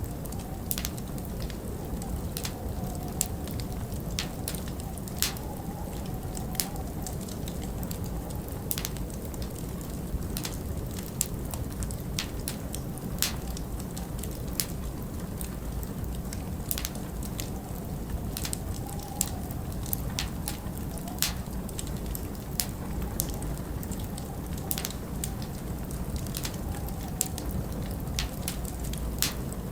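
Wood fire crackling in a large stone fireplace, with frequent irregular sharp pops, over a steady low rush of winter wind.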